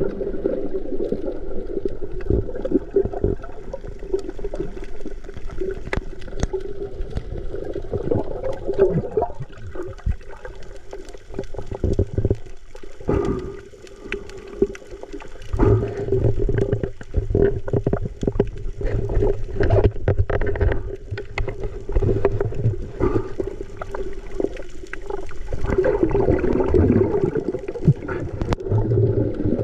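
Water gurgling and sloshing around a submerged or splashed camera microphone, muffled, with many small clicks and a steady low hum.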